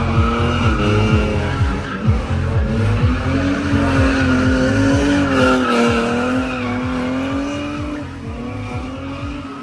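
Drift car sliding under power, its engine held high with wavering revs while the tyres squeal, over a pulsing low beat. The sound eases down near the end.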